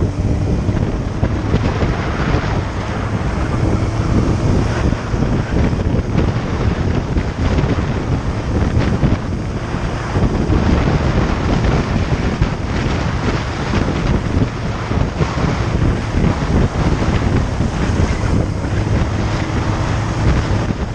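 Wind buffeting the microphone on a moving motorcycle, over a steady low hum from the engine.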